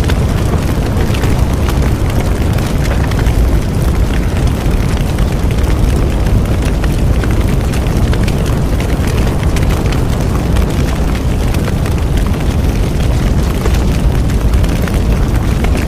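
Bonfire burning: a steady low roar of flames with many small crackles and pops throughout.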